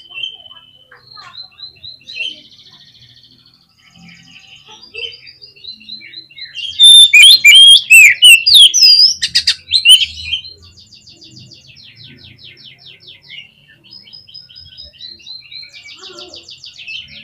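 Oriental magpie-robin (kacer) in full song: quieter runs of fast repeated trilling and rattling notes, with a loud burst of varied whistled phrases in the middle lasting about three seconds.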